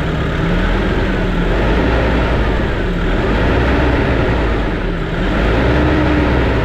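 Nissan NV350's four-cylinder turbodiesel idling at a steady, even speed after its suction control valve was replaced and its EGR and intake cleaned, with no up-and-down hunting.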